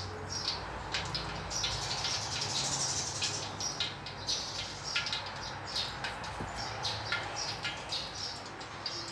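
Small birds chirping repeatedly, many short high chirps, over a steady low hum.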